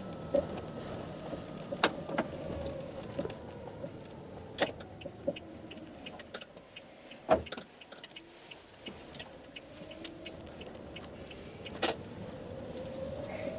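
Toyota Esquire minivan driving, with steady road noise and a drone that slowly rises and falls in pitch, broken by several short sharp knocks, the loudest about seven seconds in. The knocks are the abnormal running noise, suspected to come from the shock absorbers.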